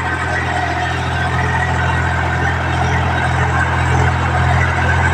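Tractor diesel engine running at a steady, even speed.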